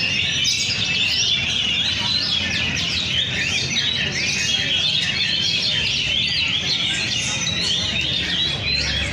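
Oriental magpie-robins (kacer) singing over one another: a dense, unbroken run of quick rising and falling whistles and chirps.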